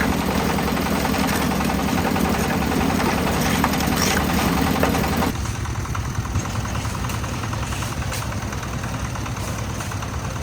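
Engine of a concrete mixer running steadily. About five seconds in, the sound drops abruptly and loses its upper, brighter part.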